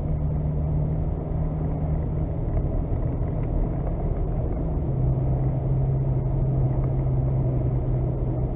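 Truck engine running steadily, its low hum stepping down to a lower pitch about five seconds in.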